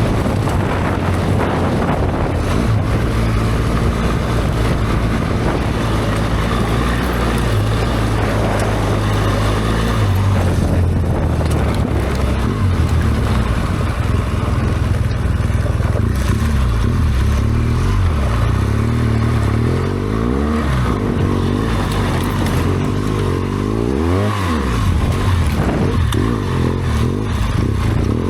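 BMW R1200GS Adventure's boxer-twin engine running under way off-road, its pitch shifting with throttle and gears and dipping and rising several times in quick succession in the last few seconds.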